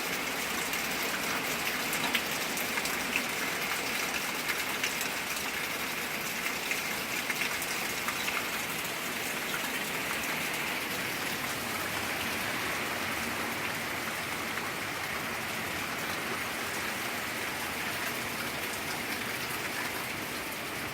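Heavy tropical-storm rain falling steadily, a constant hiss with scattered sharp drop hits, most of them in the first half.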